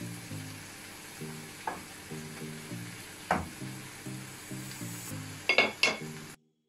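Prawns, onion and green chillies sizzling steadily in a nonstick frying pan while their juices cook off, with a wooden spatula stirring and knocking against the pan a few times, loudest twice near the end.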